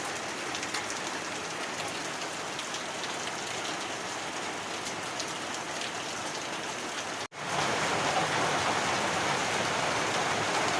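Heavy rain falling steadily, with faint ticks of single drops. About seven seconds in it cuts out for an instant and comes back louder and denser.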